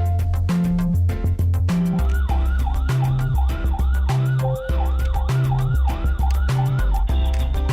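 Upbeat background music with a steady bass-and-drum beat; about two seconds in, a quick wailing siren joins it, rising and falling about twice a second.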